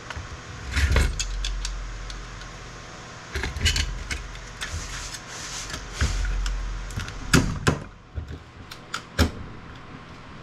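Tool and scrap circuit board clicking and clinking as tantalum capacitors are pried off the board, the parts held fast by their soldered pins. There are a dozen or so sharp clicks, with a low rumble from handling in stretches.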